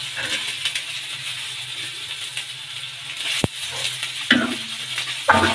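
Onions, garlic and fish pieces sizzling in oil on a flat tawa griddle while a metal slotted spatula stirs and scrapes them. About halfway through there is one sharp metallic click.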